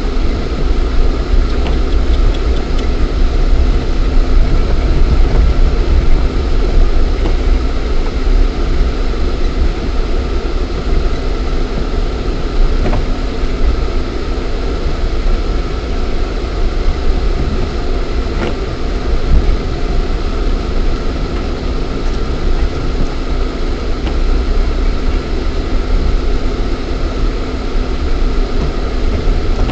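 Lada Niva 1.7i's four-cylinder engine and drivetrain running steadily while driving, heard from inside the cabin as a heavy low rumble, with a few light knocks.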